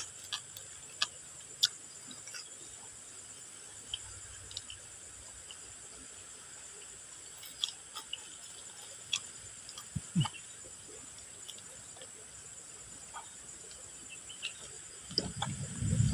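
Crunchy chewing of basreng chips: scattered sharp crunches, with a steady high hiss behind them. A louder low rumbling sound starts near the end.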